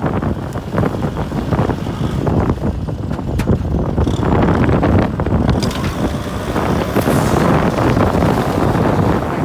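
Kubota M6040 tractor's diesel engine running steadily as it pulls a plough, with wind buffeting the microphone.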